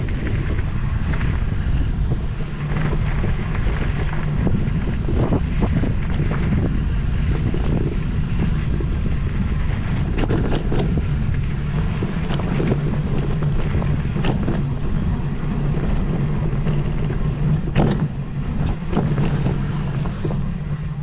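Wind buffeting the microphone over a steady low hum, with scattered knocks and rattles, as from a moving vehicle.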